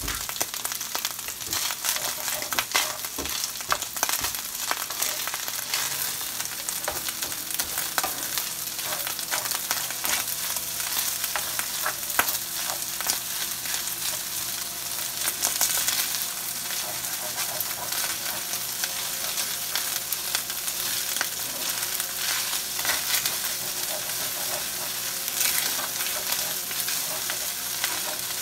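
Rice frying in butter in a skillet, sizzling steadily, with the scrape and light knocks of a spoon stirring it through the pan.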